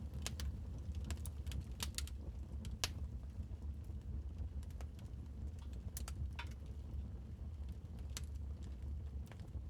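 Wood fire crackling in a fireplace: irregular sharp snaps and pops at uneven intervals over a steady low rumble.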